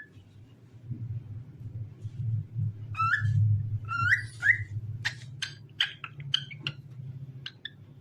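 Cockatiel whistling: about three seconds in come a few short rising whistles, followed by a quick run of sharp chirps. A low steady hum lies underneath throughout.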